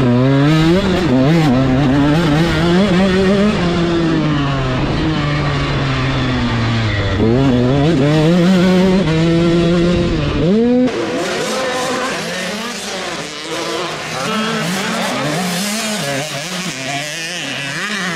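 85cc two-stroke motocross bikes racing. One bike is close, its engine note rising and falling repeatedly as it revs through the gears. About two-thirds of the way in the loud bike drops away suddenly, leaving a fainter mix of several bikes revving.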